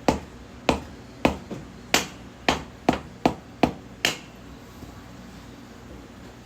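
Nine sharp hammer strikes on the wheel axle of a 2006 Harley-Davidson Road Glide, about two a second and getting slightly quicker, then stopping about four seconds in: the axle being tapped a little at a time out of the wheel.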